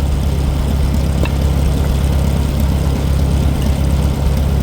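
An engine idling steadily with a low, even throb; a single light click about a second in.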